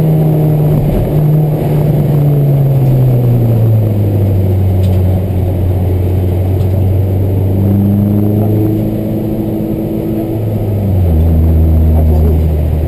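Honda Civic EK4's 1.6-litre VTEC four-cylinder engine running under load on track, heard from inside the cabin. Its note falls about four seconds in, rises a little later, and drops again near the end as it gets louder.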